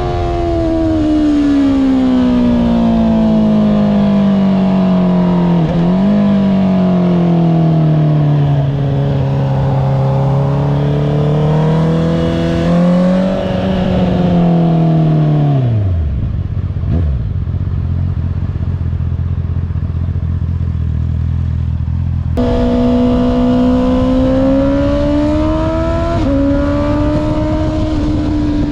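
Honda CBR650R's inline-four engine through an Akrapovic exhaust. The engine note falls as the bike slows, with a quick blip on a downshift, then settles to a low idle for several seconds. After an abrupt change it is riding at a steadier, higher note, with a gear change near the end.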